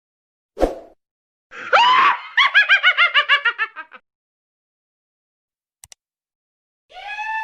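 Stock sound effects: a short sharp hit, then a scream that runs straight into a quick run of high-pitched laughing pulses that fade out. Near the end a steady held tone begins.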